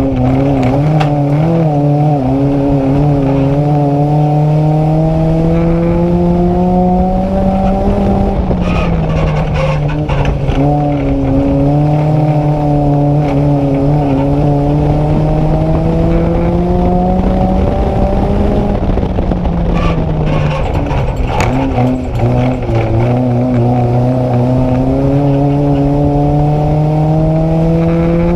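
Nissan Micra race car's engine heard from inside the car at full throttle, its revs climbing steadily, then dropping as it lifts off about every ten seconds, with knocks and rattles from the car around the lifts.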